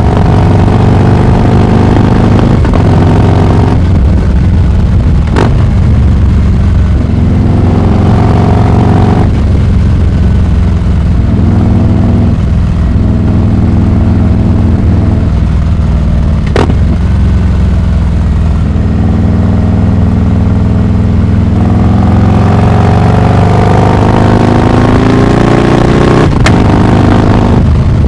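Harley-Davidson Heritage Classic 114's Milwaukee-Eight V-twin running loud through a Rinehart exhaust while riding. The engine note rises and falls with the throttle and climbs steadily over the last several seconds as the bike accelerates. Three sharp clicks stand out along the way.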